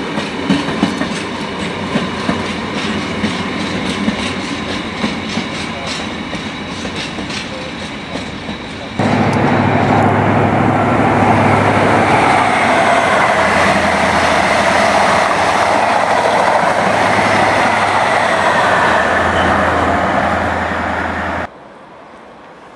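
Loaded open box wagons of a freight train rolling past, with a repeating clickety-clack of wheels over rail joints. About nine seconds in, the sound switches abruptly to a louder, steady train rumble with a low hum. Just before the end it drops to a much quieter background.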